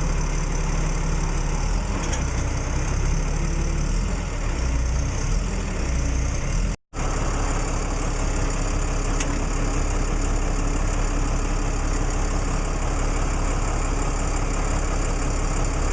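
A vehicle engine running steadily, with a low hum that cuts out for an instant about seven seconds in and then carries on.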